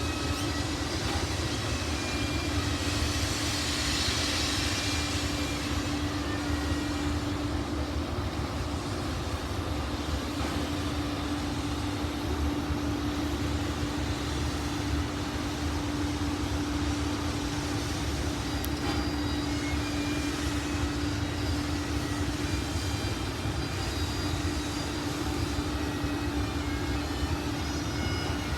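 Rx-class steam locomotive standing with steam up: a steady hiss and roar with a constant low hum, unchanging throughout.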